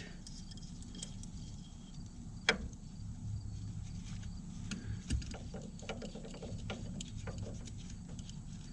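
Scattered clicks and clinks of hand tools on metal as a wrench works at a fitting on a leaking old roller, with one sharp knock about two and a half seconds in. A steady low hum runs underneath.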